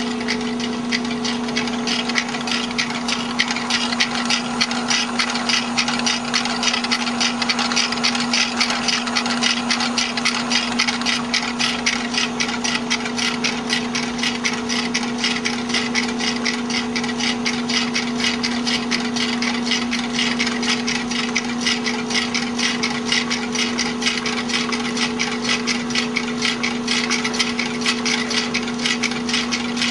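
Walking-beam Stirling engine running steadily on a butane torch, its moving parts making a fast, even clicking over a constant low hum.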